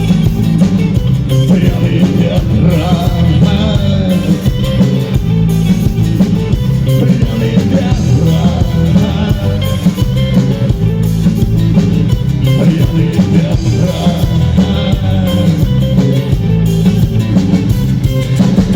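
Rock band playing live, drums, bass and guitar together at full volume, in the instrumental close of a song.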